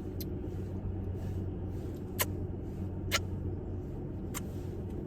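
Steady low hum of a car engine idling, heard inside the cabin, with a few short sharp clicks.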